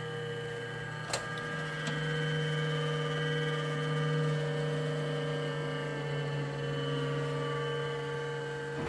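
Cuisinart air fryer toaster oven running in air-fry mode, its convection fan giving a steady mechanical hum made of several tones. A sharp click comes about a second in and a fainter one shortly after. The hum cuts off suddenly at the very end.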